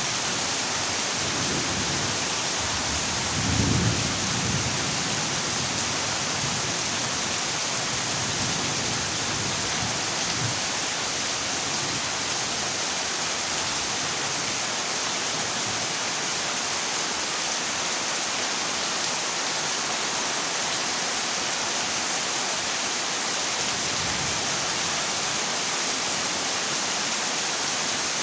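Heavy rain falling steadily on a corrugated zinc roof, an even hiss, with a short low rumble of thunder about three and a half seconds in.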